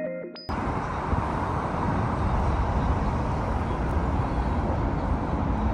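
A synthesizer tune cuts off about half a second in. Then comes the steady rumble and road noise of an MBTA city bus.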